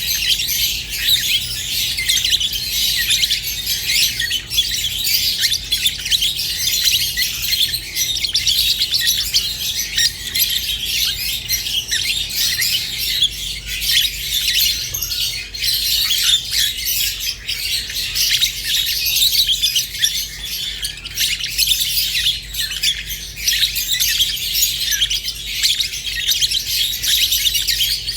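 Rosy-faced and Fischer's lovebirds chattering and chirping without pause, a dense stream of rapid high-pitched chirps and squawks, over a faint low steady hum.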